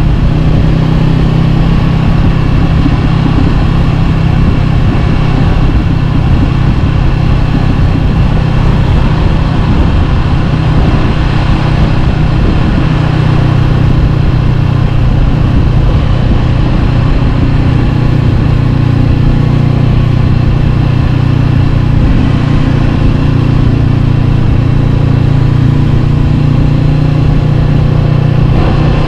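Honda CB500X's parallel-twin engine running at a steady, even pitch through an Arrow Pro-Race exhaust: a loud, constant exhaust note with no revving.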